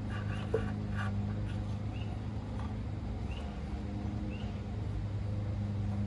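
A steady low hum, with a couple of light knocks in the first second and faint high chirps every second or so.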